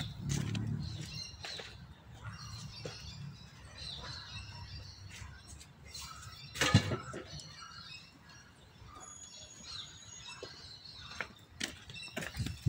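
Small birds chirping and tweeting in short, scattered calls, with one sharp knock about halfway through.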